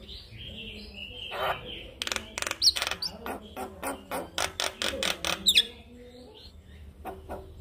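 Male Javan myna singing: harsh chattering notes, then a fast run of sharp clicking calls at about four a second, with a couple of short high whistles. The calls grow quieter near the end.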